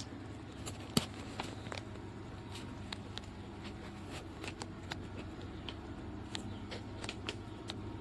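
Plastic camping shower head and hanger being handled and hung up: scattered light clicks and taps, with a sharper click about a second in, over a faint steady low hum.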